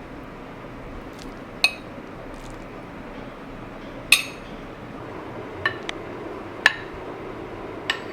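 Dishes and utensils clinking in a kitchen: about six sharp, ringing clinks, spaced irregularly, over a steady low background hiss.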